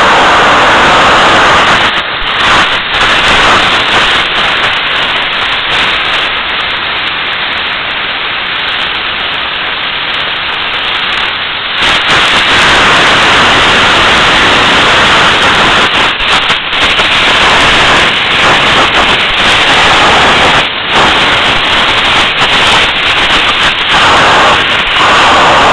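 Homemade 200 lb-thrust jet engine running, a loud continuous rushing noise. About two seconds in it drops and dulls for roughly ten seconds, then comes back up to full loudness for the rest.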